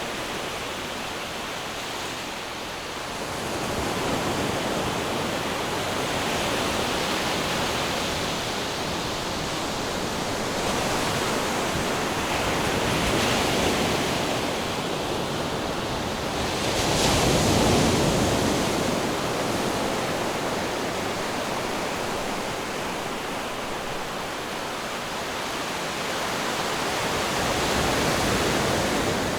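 Ocean surf: a continuous rush of waves that swells and falls back every few seconds, the biggest swell about two-thirds of the way through.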